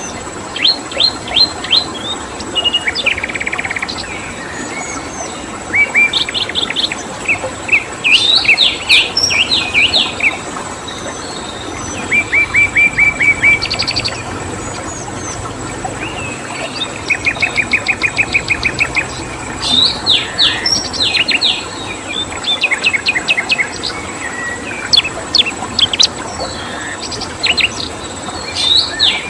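Songbirds chirping in loud bursts of quick repeated high notes and short trills, one phrase after another every second or two, over a steady background hiss and a constant thin high tone.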